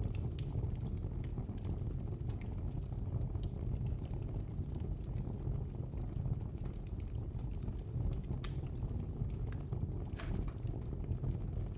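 Wood fire burning in a fireplace, a steady low rumble of flames with irregular sharp crackles and pops scattered throughout.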